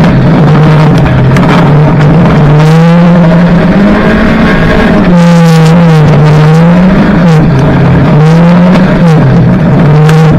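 Banger racing car's engine heard from inside the stripped-out cabin, revving up and dropping back over and over as the throttle is worked, with occasional sharp knocks.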